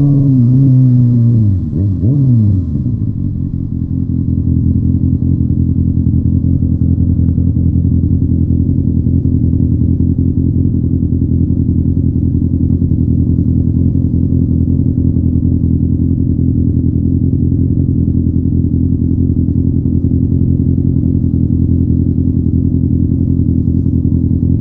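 Motorcycle engine, its revs falling over the first two or three seconds, then running at a steady low note.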